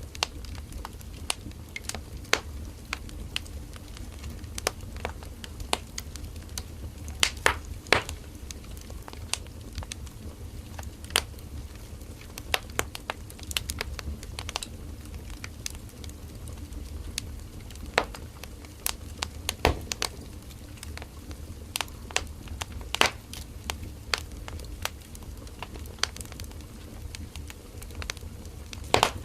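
Firewood burning in a campfire: a low steady rumble of the flames with irregular crackles and sharp pops of the burning wood, a few of them louder.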